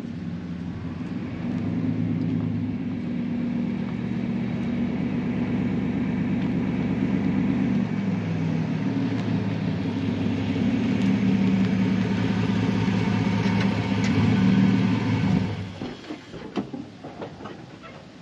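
Pickup truck driving, its engine and road noise heard from inside the cab as a steady low hum. About fifteen seconds in the noise falls away as the truck pulls up and stops, leaving a few light clicks and knocks.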